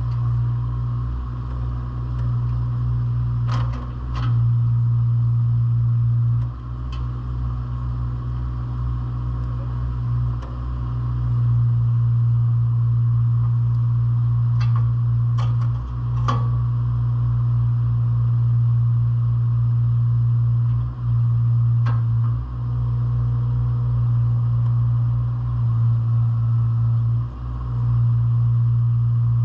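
Diesel engine of a JCB 8016 mini excavator running steadily, its level dipping briefly now and then, with a few sharp metallic knocks.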